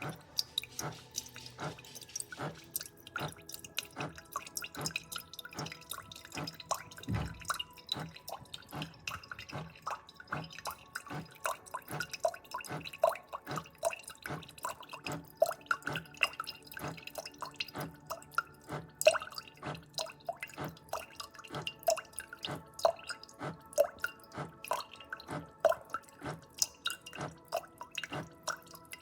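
Single-serve coffee maker brewing, coffee dripping and spattering into the cup in quick, irregular drops over a faint steady hum.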